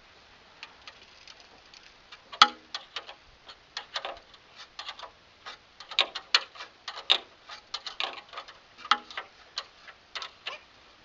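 Irregular metallic clicks and clinks of hand tools working the bolts that fix a fibreglass rotor to a wind generator's shaft, a few per second and uneven in strength, the loudest about two and a half seconds in.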